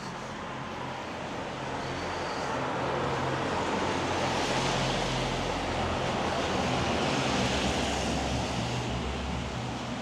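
Traffic passing on a wet road: engine hum and tyre hiss on the wet surface swell over several seconds and ease off slightly near the end.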